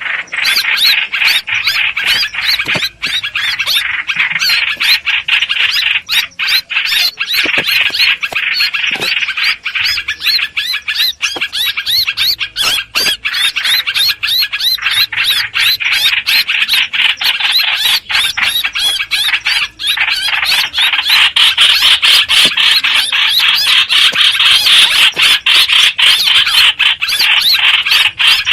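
Hoành hoạch bird calling without a break: a dense run of rapid, high, squealing notes, played as a trapping lure recording. It gets a little louder about two-thirds of the way in.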